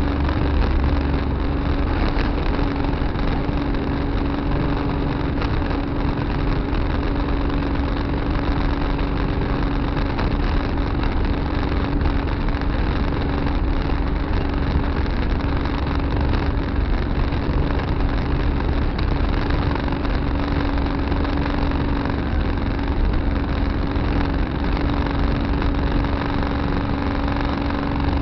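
Tractor engine running steadily at an even speed, with a constant droning tone.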